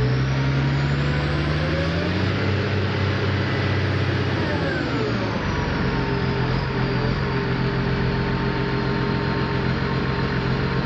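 Heavy transport vehicle's diesel engine running under load, its revs climbing about two seconds in, holding, then dropping back around five seconds in to a steady speed.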